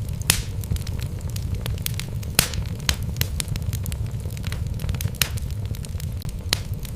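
Wood logs burning in a fireplace, crackling with irregular sharp pops over a low, steady rumble of the fire.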